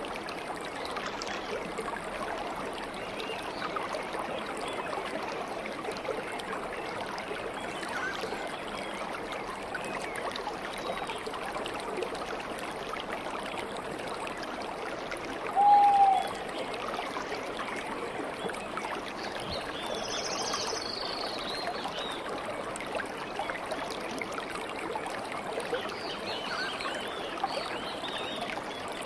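A stream of water flowing steadily. About halfway through a bird gives one short, loud whistled note that drops slightly at its end, and fainter high bird chirps come and go later on.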